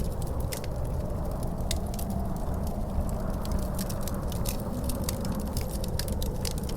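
Wood fire crackling with frequent sharp pops, over a steady low rumble of wind with a faint wavering howl.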